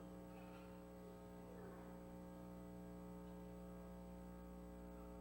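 Near silence with a steady electrical hum, made of many steady tones at once, and faint rustles at about half a second and two seconds in.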